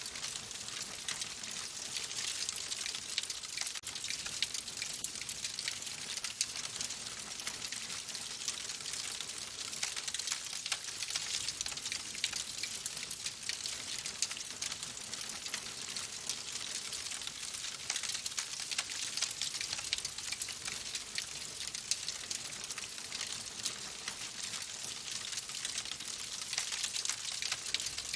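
Wood fire in a fireplace crackling steadily: a constant hiss of burning logs with a dense scatter of small sharp pops and snaps.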